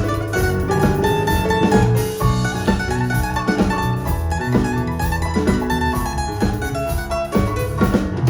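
Live band music: a busy plucked-string melody over a strong bass line and drums.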